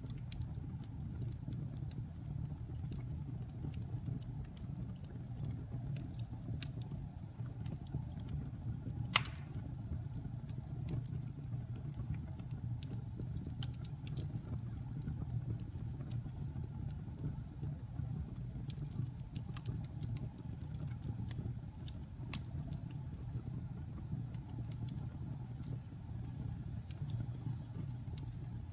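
Wood fire in a fireplace crackling: a steady low rumble under scattered small pops and ticks, with one sharp, louder pop about nine seconds in.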